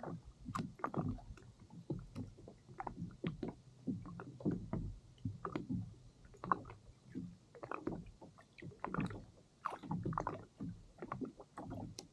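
Water lapping and slapping against a kayak's hull in small irregular splashes, roughly one or two a second.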